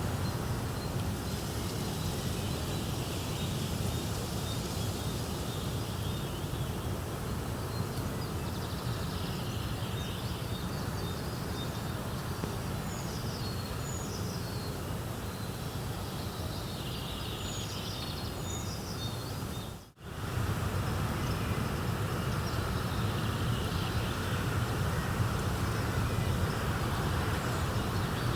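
Steady rushing nature ambience with small birds chirping now and then. The sound drops out for a split second about two-thirds of the way through, then resumes.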